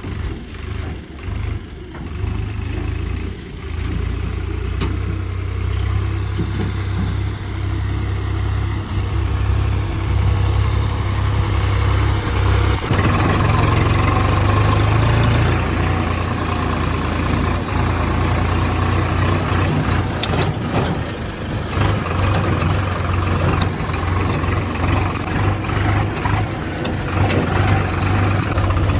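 Diesel engines of earthmoving machinery running with a steady low rumble. About thirteen seconds in, the sound changes abruptly and becomes louder and fuller.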